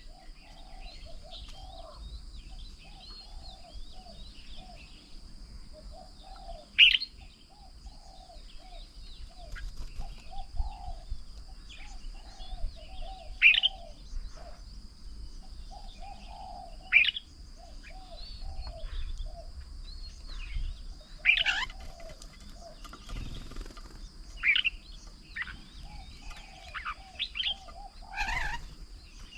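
Several garden birds calling around a feeding table: a continuous run of short, fairly low chirping notes, with a louder, sharp, downward-sweeping call every few seconds, about seven in all.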